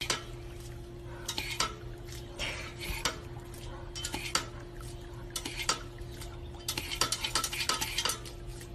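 Many light clinks and taps in irregular clusters, like dishes or utensils being handled, over a steady low hum.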